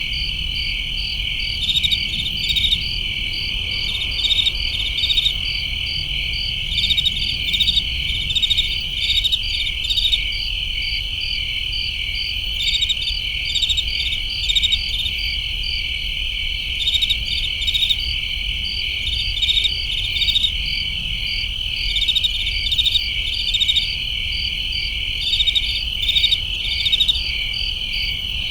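Crickets chirping: a steady high trill with louder pulsed chirps repeating every second or so, over a low steady rumble.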